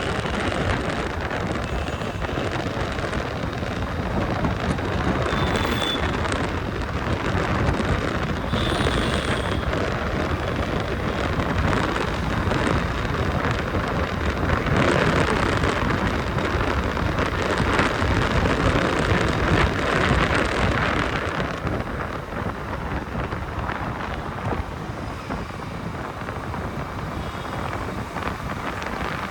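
Wind buffeting the microphone of a moving motorbike, over the noise of road traffic. It grows louder through the middle stretch and eases a little in the last part.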